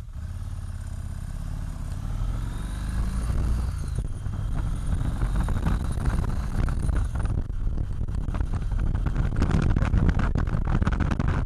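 Motorcycle engine accelerating, its pitch rising over the first few seconds, then running harder and louder with gusty wind noise on the microphone.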